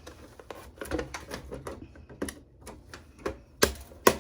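Irregular clicks and knocks of a hand tool prying parts off a computer motherboard, with two sharper snaps near the end.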